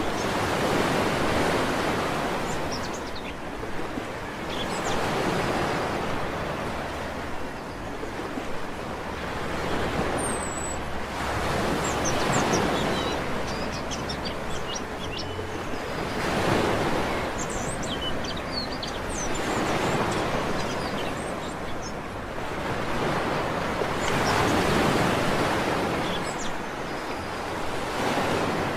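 Sea waves breaking on a beach, the surf swelling and falling back about every four seconds, with small birds chirping briefly now and then above it.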